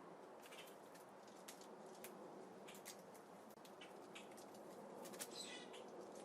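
Faint, irregular clicks and taps of birds pecking at and cracking seeds at a feeder, with one brief, falling bird call about five seconds in.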